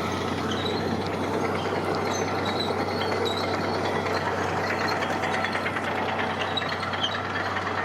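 Heavy construction machine's engine running steadily, with continuous rattling and clanking over a constant low hum.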